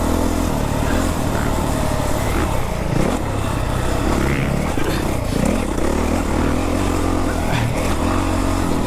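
Motocross dirt bike engine revving up and falling off again and again as it is ridden around the track, heard from the bike itself over a rush of wind noise.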